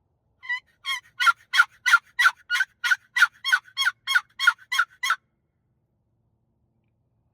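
Chalked turkey box call worked by hand in a run of about fifteen hen yelps, about three a second, the first two softer; blind calling to draw in a turkey that cannot be seen. The yelping stops about five seconds in.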